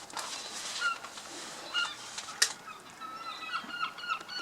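Young seagull chicks giving short, thin, repeated begging calls, calling for their parents; the calls come thick and fast near the end. A single sharp click about two and a half seconds in.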